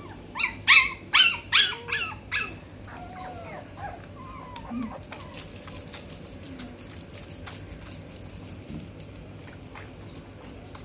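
Husky puppy yelping: about six sharp, high-pitched yelps in quick succession, then softer whining that trails off into faint whimpers.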